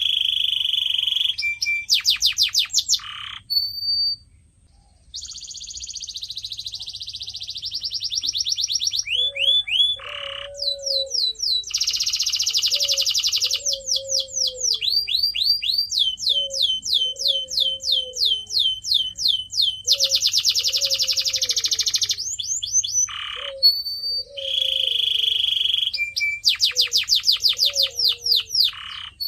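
Domestic canary singing a long, continuous song of rapid trills and rolls: runs of fast down-sweeping notes alternate with buzzy, rattling tours, broken by brief pauses.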